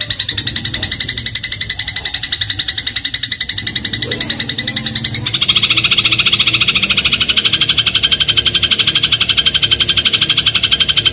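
Eurasian tree sparrow (burung gereja) chattering in a fast, even run of many short notes a second. About five seconds in the chatter drops to a lower pitch and carries on.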